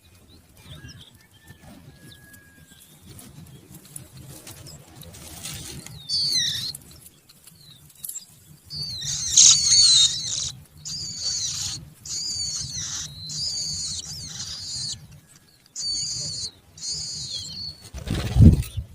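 Small birds, likely nestlings, making high-pitched squeaky calls in a string of short bursts through the second half, over a low rumble of handling. A loud thump near the end.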